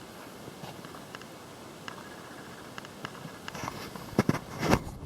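Footsteps on attic framing: heavy thuds and knocks begin about four seconds in. Before them, a faint steady hiss with a few light clicks.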